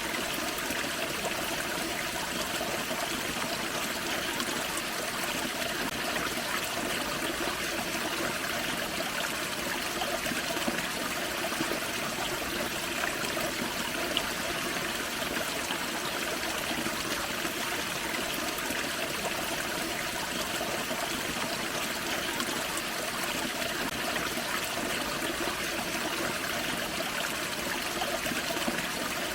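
Small forest creek and little waterfall, water running and splashing steadily over rocks.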